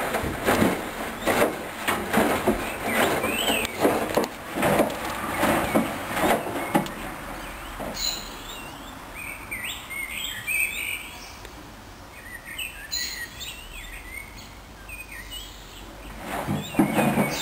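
Hoover Dynamic Wash washing machine drum turning during a mini-load wash, with a rapid run of irregular knocks and clunks from the load tumbling. About seven seconds in the drum pauses and birds chirp in the background. The tumbling starts again near the end.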